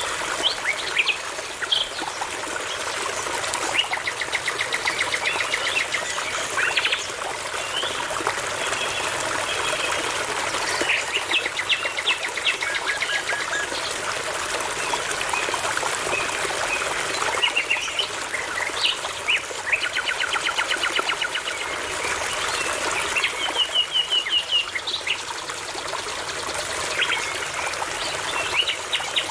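Birds singing phrase after phrase, with fast runs of repeated notes and short whistles, over the steady rush of a babbling brook.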